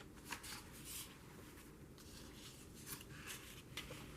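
Faint, soft rustling and brushing of paper, several short swishes, as journal pages are handled and turned.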